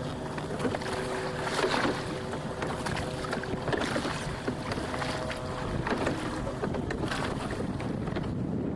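Wind buffeting the microphone and water splashing against the hull of a boat under way. A faint steady hum runs through the first six seconds or so.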